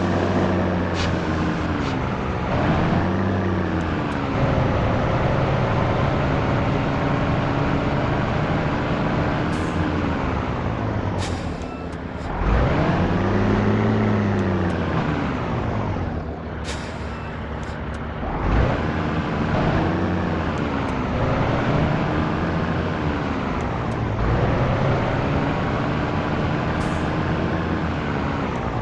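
Scania T113 truck's diesel engine running under way, its revs rising and falling several times, with a few short hisses of air.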